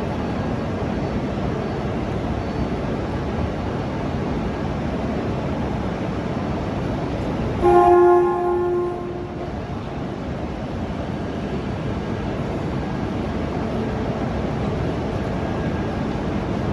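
Shinkansen trainsets at the platform during coupling, with a steady rail and station rumble. About eight seconds in, a brief, loud pitched tone with overtones sounds and fades within a couple of seconds.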